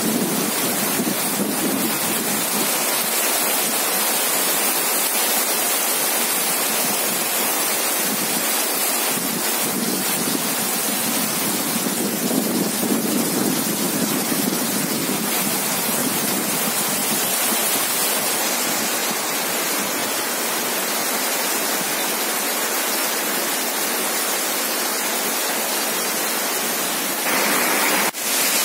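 Heavy rain pouring down, a steady, dense hiss that breaks briefly near the end.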